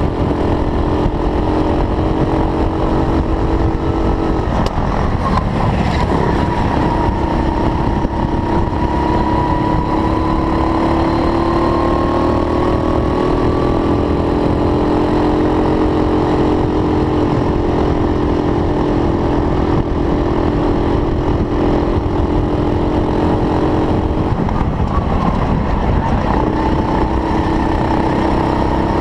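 Racing kart engine running hard, its pitch slowly rising and falling, with the note breaking up briefly about four seconds in and again near the end before climbing back.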